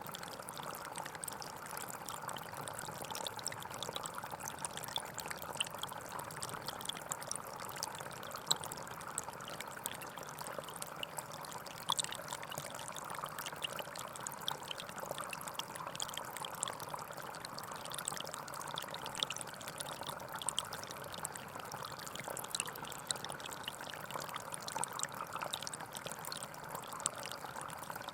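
Gentle forest stream flowing steadily, a constant trickling rush with many small splashes.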